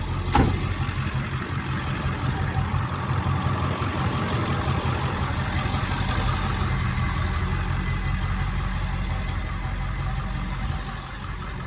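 A vehicle engine idling steadily, with a single sharp knock about half a second in.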